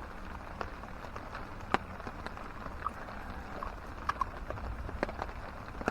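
Steady rush of a creek in rain, with scattered drips and small pops, one sharper click a little under two seconds in.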